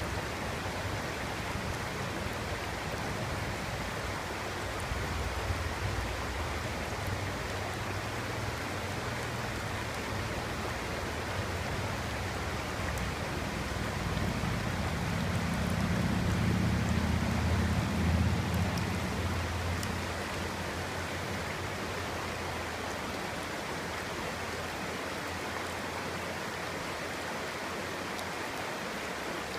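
Clear stream babbling steadily. About halfway through, a low rumble swells up for several seconds and then fades back.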